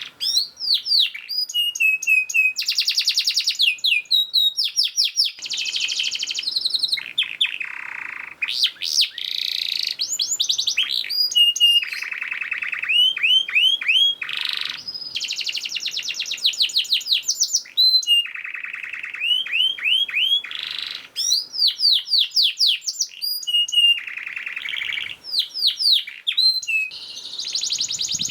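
Domestic canary singing continuously, a long song of fast repeated trills, quick downward-sweeping notes and dense buzzy rattles.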